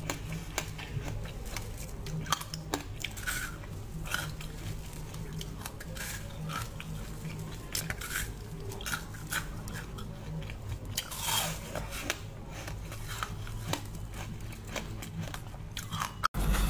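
Close-miked mouth sounds of biting into and chewing a soft bread bun: irregular small crackles and wet clicks, thickest about two-thirds of the way through, over a low steady hum.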